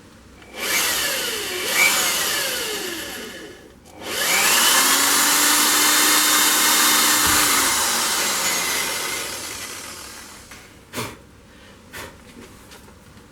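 Electric drill run in two bursts: the first short, the second spinning up to a steady speed for a few seconds, then slowly winding down as it coasts to a stop. Two sharp knocks follow near the end.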